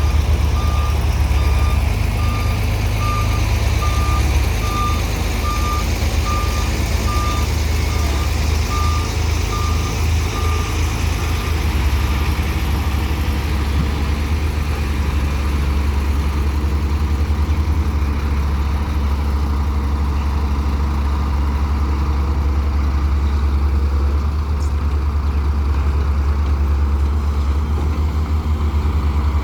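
Heavy diesel machinery running steadily, with a reversing alarm beeping about once a second for the first ten seconds or so, fading out.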